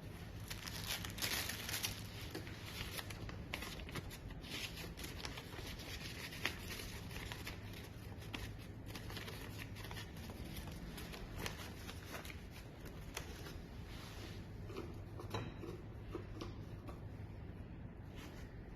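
Irregular rustling with many small clicks and taps of objects being handled, over a steady low hum.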